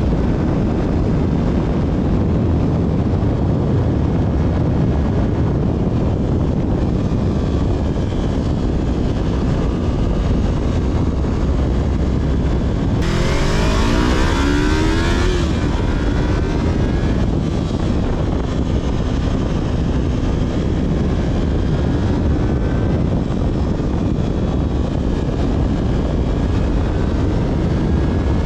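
Yamaha R3's parallel-twin engine through its stock exhaust while riding, under a steady low rumble of wind and road noise. About halfway through, the engine pitch climbs for a couple of seconds along with a louder hiss.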